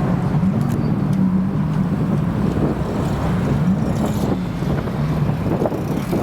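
TVR Griffith's V8 engine running at low revs as the car drives off, with a couple of small rises in pitch from light throttle, over some wind noise on the microphone.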